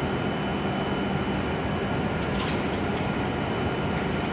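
E7 series Shinkansen train standing at a station platform, with a steady hum and a few constant tones. Some faint ticks come about two to three seconds in.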